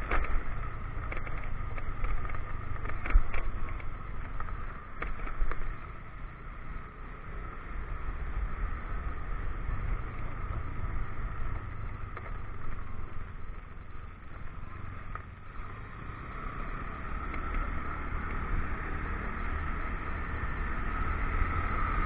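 Motorcycle engine running steadily, with wind and road noise on the helmet or bike-mounted action camera. A few sharp knocks in the first several seconds come from riding over a rough, potholed road.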